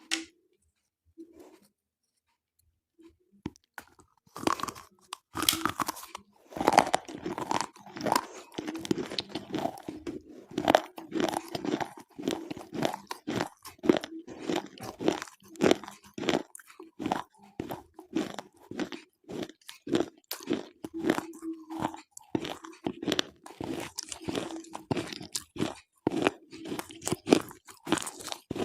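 Slate pencils being bitten and chewed close up: a dense run of sharp, brittle crunches, starting about four seconds in after a short quiet stretch.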